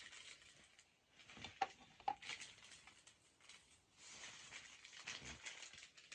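Plastic snack packaging rustling and crinkling as it is handled, in two crackly spells, with two sharp clicks about a second and a half in.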